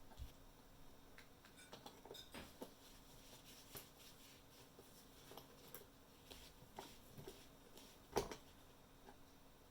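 Faint, scattered small clicks and taps of parts and tools being handled, with one louder knock about eight seconds in, over a low steady hum.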